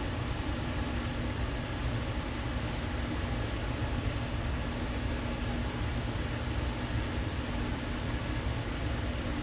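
Steady low rumble and hiss of running machinery, with a faint steady hum.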